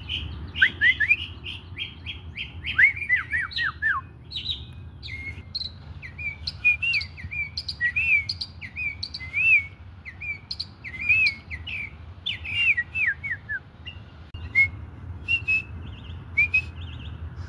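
Songbird singing and calling: runs of quick, down-slurred whistled notes, with short rising-and-falling chirps repeated in between.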